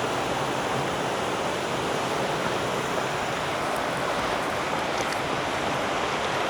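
Steady rush of a river's flowing water close by.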